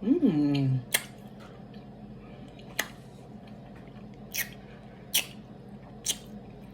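Wet lip smacks and mouth clicks from chewing Airheads taffy candy: five short, sharp smacks spaced about a second apart, after a brief 'mm' hum at the start.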